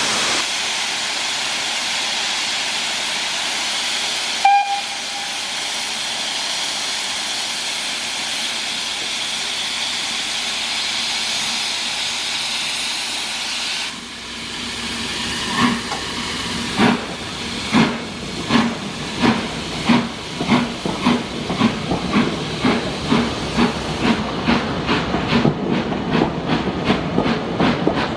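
Steam locomotive hissing steadily as it stands, with a short whistle pip about four seconds in. About halfway through it starts away: slow, heavy exhaust chuffs that quicken steadily as the engine gathers speed.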